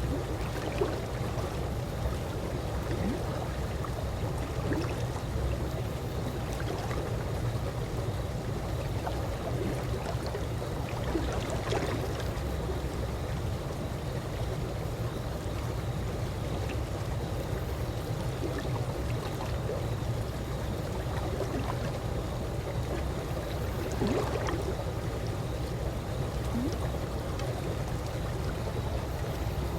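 Calm swimming-pool water lapping and trickling over a steady low rumble, with a faint steady tone underneath. There are two slightly louder splashes, a little before halfway and again near the end.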